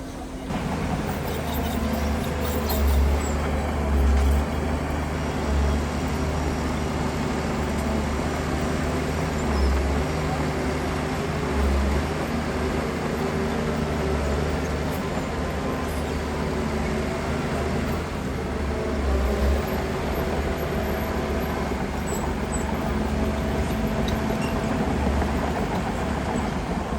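Heavy diesel engine of earthmoving machinery running steadily. Its deep rumble swells briefly several times, about a second apart at first and then every few seconds.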